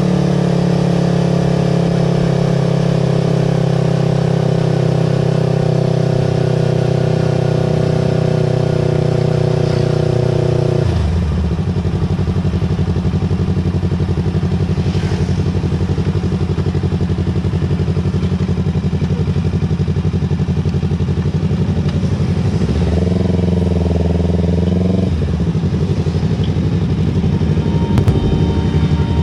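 Yamaha R25's parallel-twin engine running through a Villan Pro 2 aftermarket exhaust at a steady engine speed, its note changing about eleven seconds in. About twenty-three seconds in the revs rise briefly and fall back.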